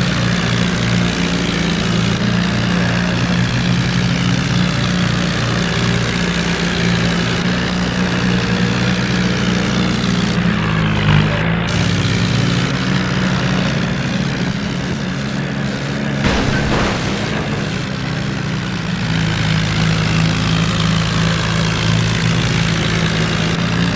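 Tractor diesel engines running hard and steadily under load in a tractor tug-of-war, with a brief dip in engine pitch about eleven seconds in and a short knock a few seconds later.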